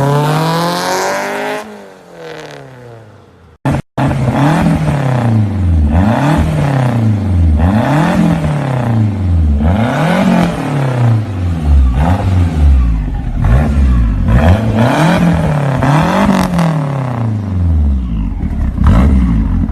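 Car engine being revved again and again, its pitch rising and falling about once a second. It opens with a single falling rev that fades, and after a brief break a little under four seconds in the repeated revving begins.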